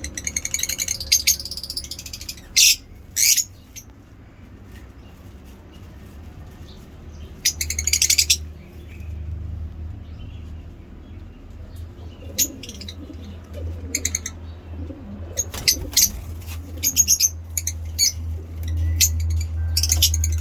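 Caged lovebirds chirping: clusters of short, sharp, high-pitched calls with pauses between, busiest in the last few seconds, over a steady low hum.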